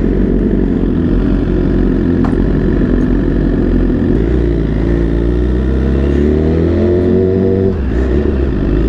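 Motorcycle engine running under way, its pitch climbing steadily from about halfway through as it accelerates, then dropping sharply near the end at a gear change before it picks up again.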